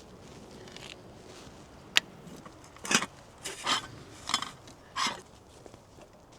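Footsteps crunching in snow: a sharp click about two seconds in, then four crunching steps, each a little under a second apart.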